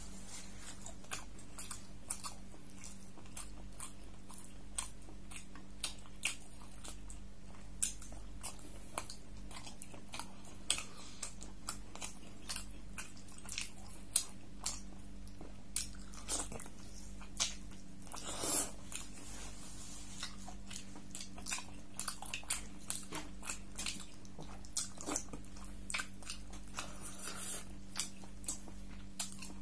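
Close-miked eating of beef curry with paratha: chewing with irregular wet mouth clicks, a few a second, over a steady low hum.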